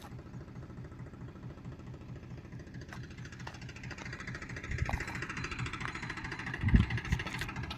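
Diesel engine of a tractor or backhoe loader running steadily with a fast, even firing pulse, with a few heavier low thumps near the end.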